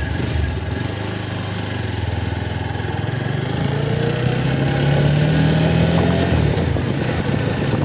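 Motorcycle engine under way, its pitch rising steadily from about two seconds in as it speeds up, then dropping sharply about six and a half seconds in.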